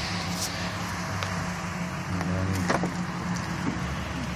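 Pickup truck engine idling steadily, with a few short clicks over it.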